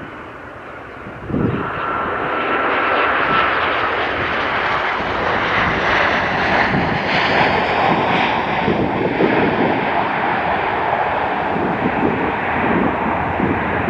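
Airliner's engines roaring as it passes close by, the sound swelling sharply about a second in and staying loud and steady.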